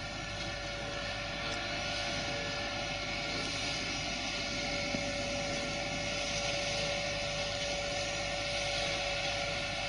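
Farm tractor running steadily with its shrub trimmer attachment working, a steady whine over the engine noise.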